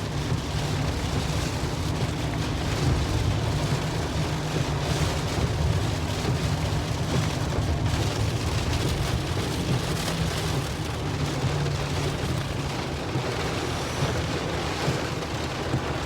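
Heavy rain falling steadily, an even hiss with a steady low rumble underneath.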